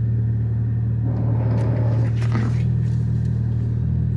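Toyota Supra's B58 turbocharged inline-six with a titanium exhaust and catted downpipe, cruising at steady revs with a constant low exhaust drone. A brief rushing noise rises over it about a second in and fades a little before the halfway point of the second half.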